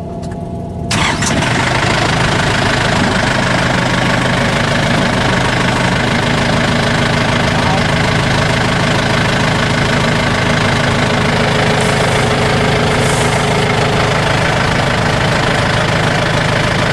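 Tractor engine catching about a second in, then running loud and steady.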